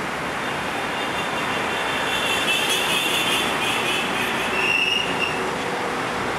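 CPTM electric commuter train arriving at a platform, running with a steady rumble. A high metallic squeal from its wheels sets in about a second and a half in and fades out about five seconds in.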